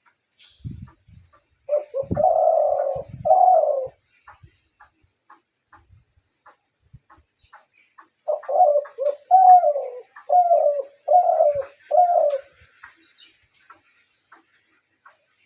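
Spotted dove cooing: a two-note phrase about two seconds in, then a run of five short coos from about eight to twelve seconds, each note dropping slightly at its end. A few low thumps come near the start.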